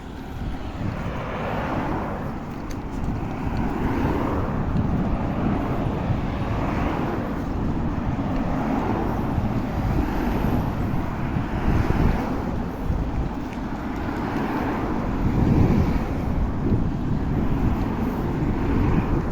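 Wind rumbling on the microphone of a moving bicycle, with road traffic noise that rises and falls as vehicles pass.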